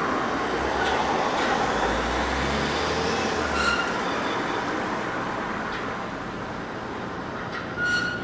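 Train running past on the line, a steady rumble that slowly fades, with brief high-pitched squeals about three and a half seconds in and again near the end.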